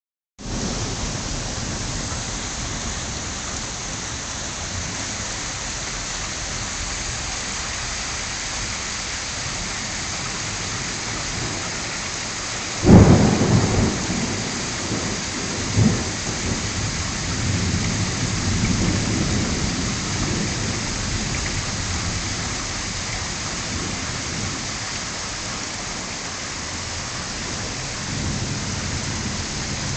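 Steady heavy rain falling during a thunderstorm, with a sharp thunderclap about halfway through that rolls off into rumbling, a second smaller clap a few seconds later, and further low rumbles.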